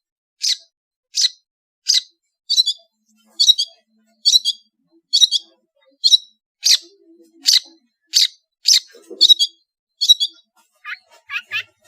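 Long-tailed shrike (cendet) in full song: a steady run of short, sharp, high notes, about one and a half a second. Near the end it breaks into a quicker few lower, down-slurred notes.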